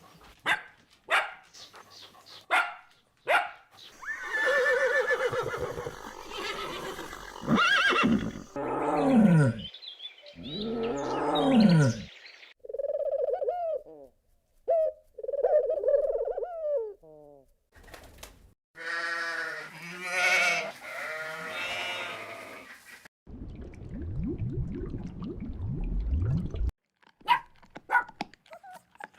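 A series of different animal calls, one after another with brief gaps: quick sharp chirps, then longer calls that fall in pitch, short low steady calls, and a low rapid pulsing near the end.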